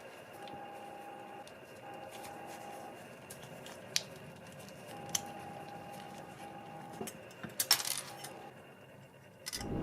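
Sparse light clicks and clinks of small metal objects, with a short cluster of them near the end. A faint, steady pitched hum comes and goes in a few stretches.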